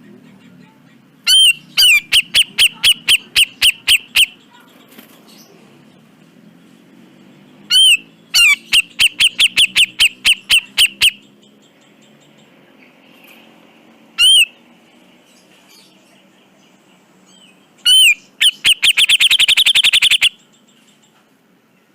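Cucak jenggot (grey-cheeked bulbul) calling in four loud bouts. Each bout opens with a ringing arched note and runs into a string of sharp, harsh notes at about four or five a second. The last bout, near the end, is much faster. A faint low hum runs underneath.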